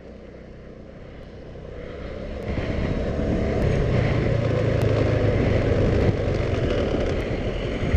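Moped engine running with wind noise over the microphone, growing louder about two to four seconds in as the scooter picks up speed, then holding steady.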